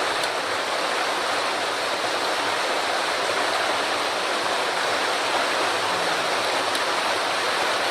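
Rushing water of a mountain stream running high after a typhoon: a steady, loud rush with no change.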